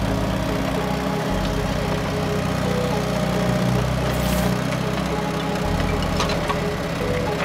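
The small motor of a home-built miniature bulldozer running steadily. Its low drone shifts in pitch a few times as the load changes, with a few light clicks.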